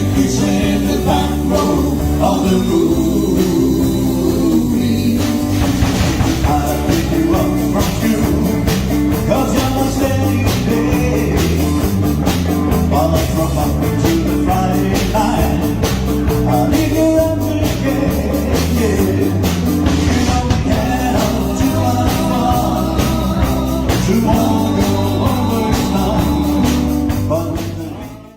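Live fifties rock and roll band playing a stretch without lyrics: electric guitar, bass and drum kit keeping a steady beat. The music drops out abruptly at the very end.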